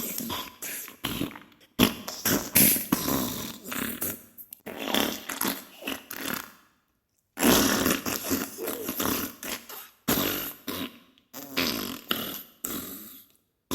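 Diarrhea sound effect: a series of farting, spluttering bursts of varying length, broken by short pauses, with a clear break of silence about seven seconds in.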